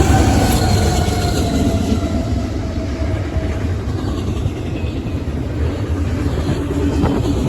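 Union Pacific freight train passing at speed, a steady heavy rumble of rolling cars. Over the first few seconds a tone from the passing locomotives slides down in pitch and fades.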